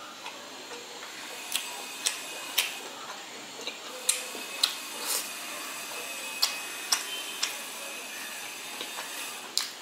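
Close-miked chewing of steamed chicken momos: wet mouth clicks and smacks in short runs of about two a second, over a faint steady hiss.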